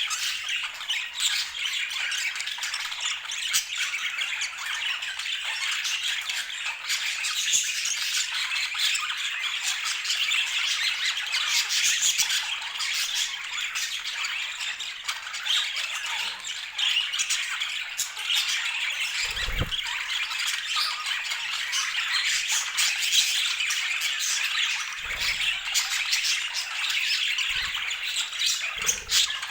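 A flock of budgerigars chattering and squawking, many calls overlapping without a break.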